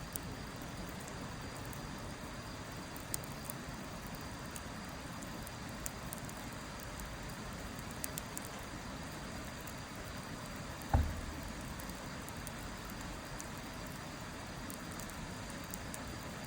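Wood fire burning with scattered sharp crackles and pops over a steady hiss. One louder dull thump about eleven seconds in.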